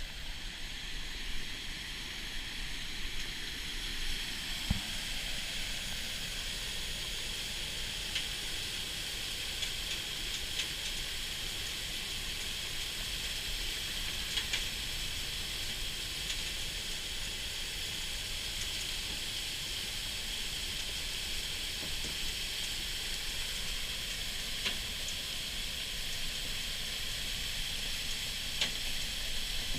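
River in flash flood, its floodwater rushing steadily as an even hiss.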